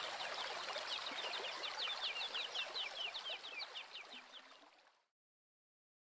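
Birds chirping in a rapid run of short calls over a steady background hiss, all fading out about five seconds in.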